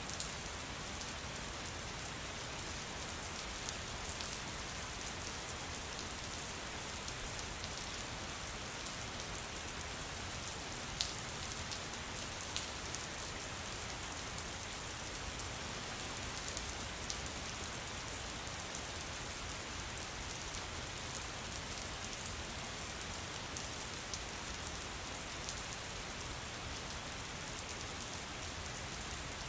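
Steady rain falling, a constant even hiss with occasional single drops ticking out above it.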